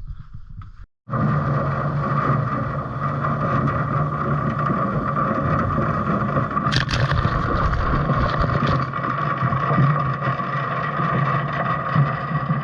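Case IH Puma tractor running steadily, with a constant whine over the engine; it starts abruptly about a second in.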